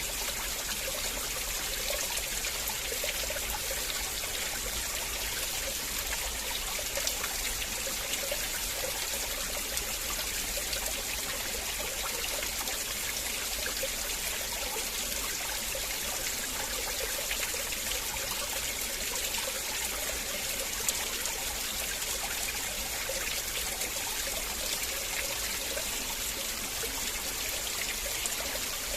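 River water flowing, a steady rush with small bubbling notes in it.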